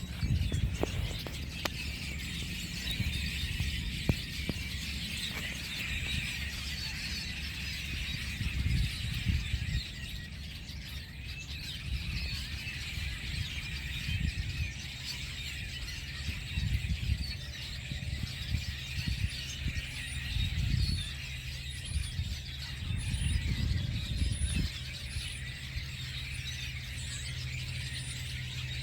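A large flock of birds chirping and calling all at once in a dense, continuous chatter, with low rumbles that come and go.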